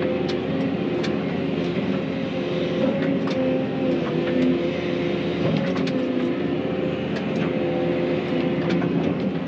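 Excavator's diesel engine running steadily while it works, a constant held hum with scattered sharp clicks and cracks through it.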